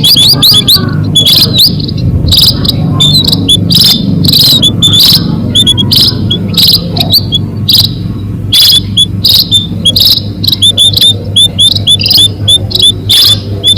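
Munia (bondol) lure calls: rapid, high, short chirps in quick clusters, as from a calling flock, over a steady low hum.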